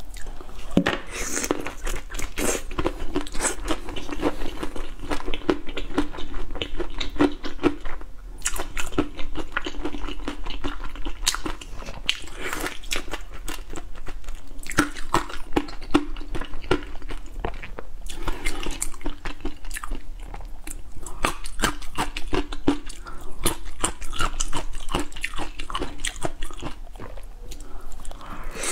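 Close-miked biting, chewing and crunching of whole shrimp in spicy sauce, a steady run of small crackles and mouth clicks with only brief pauses.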